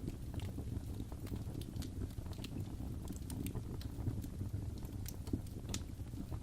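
Wood fire crackling in a fireplace: a low steady rumble of the burning with irregular sharp pops and snaps scattered through it.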